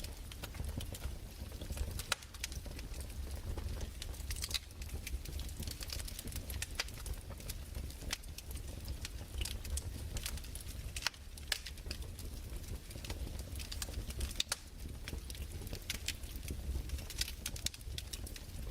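Crackling fireplace: burning wood giving off irregular sharp pops and snaps over a steady low rumble.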